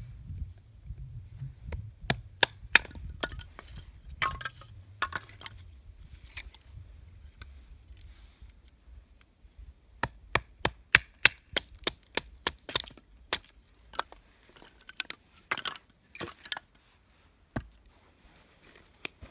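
Wood being struck and cracked: scattered sharp knocks, with a quick run of about ten strikes about halfway through, as when firewood is split or broken for a campfire.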